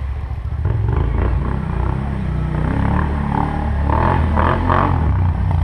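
4x4 ATV engine running steadily during a ride, a low drone, with some brief brighter noise in the middle.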